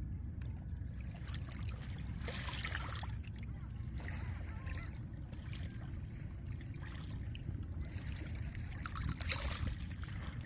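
Small lake waves washing over a pebble shore, with a steady low wind rumble underneath. The washes come and go in swells, the biggest around two seconds in and near the end.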